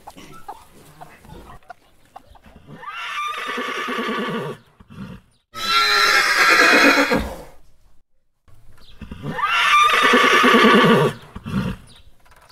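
Horse whinnying: three long, quavering neighs a few seconds apart.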